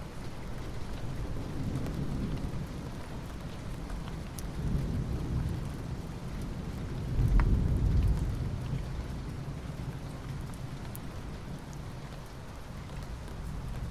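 Soft rain falling on asphalt: a steady hiss with a few sharper drip ticks. Under it runs a low rumble that swells and fades, loudest about seven to eight seconds in.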